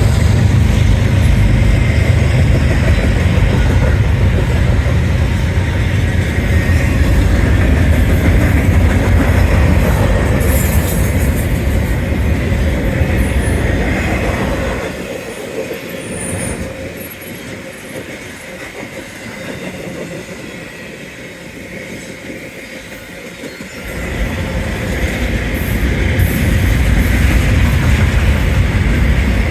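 BNSF intermodal freight train rolling past close by: a loud, heavy rumble that eases to a quieter stretch about halfway through for several seconds, then builds back up as more cars pass.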